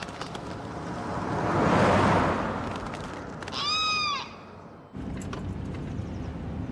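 A rushing whoosh swells and fades, followed by a single arched, squawk-like bird call. About five seconds in, the sound cuts to a steady low hum.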